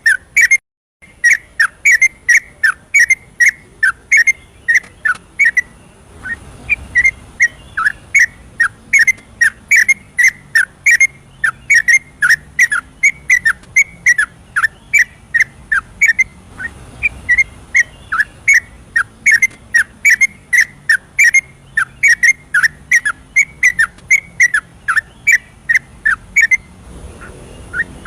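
Yellow-vented bulbul (trucukan) singing its rapid, continuous 'ropel' song: a long, unbroken string of short whistled notes at about three a second, with one brief break about a second in.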